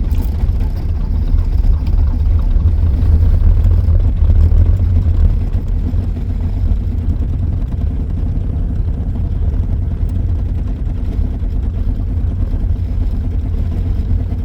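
1982 Volvo 240's D24 inline-six diesel running just after catching on a cold start at about −5 degrees, accelerator held down: a steady, loud low rumble, a little louder in the first five seconds, then settling slightly.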